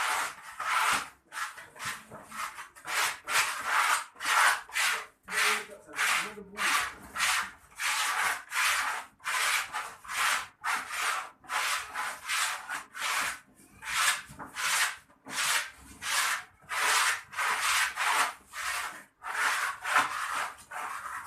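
Rhythmic rasping strokes, about two a second, of something being rubbed or scraped back and forth.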